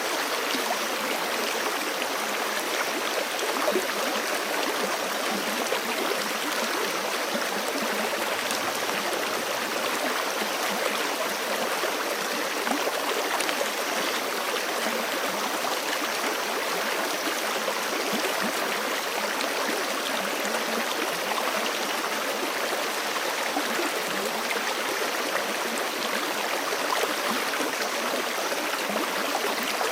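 Forest creek running over rocks: a steady rush of flowing water with small splashes and gurgles.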